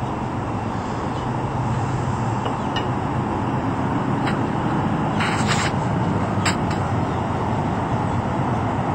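Steady, traffic-like background noise with a low hum, and a few short high-pitched calls near the middle.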